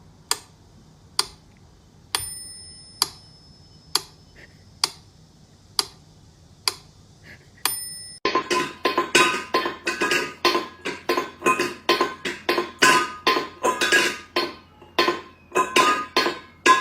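Steady ticking, about one tick a second, with a short bell-like ring twice. About halfway through it gives way to busier, quick percussive music.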